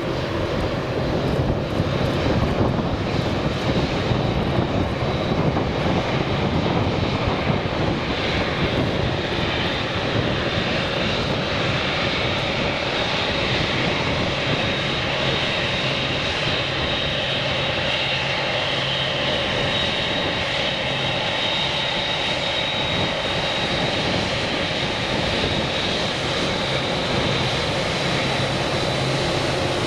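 Four General Electric GEnx-2B turbofans of a Boeing 747-8F freighter running steadily, a loud even jet noise with a high steady whine.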